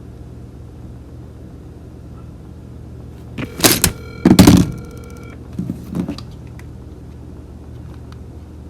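Loud handling thumps and knocks on a phone about three and a half seconds in, a couple more faint ones a little later, with a steady electronic beep-like tone sounding for about a second and a half among them, over a low steady hum.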